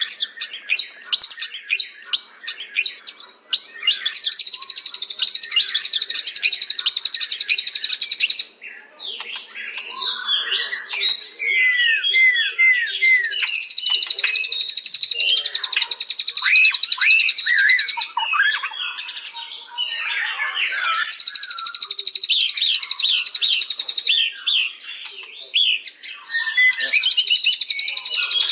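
White-rumped shama (murai batu) singing. Four bursts of fast, harsh rattling chatter, each a few seconds long, alternate with clear whistled notes that slide up and down.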